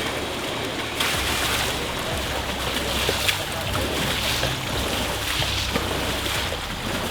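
Heavy rain pouring down, a steady, loud rushing hiss.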